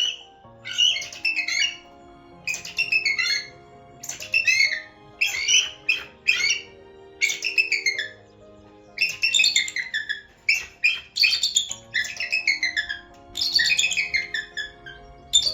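A bird calling in about a dozen loud, harsh bouts, each a run of quick downward-sliding squawks, over background music.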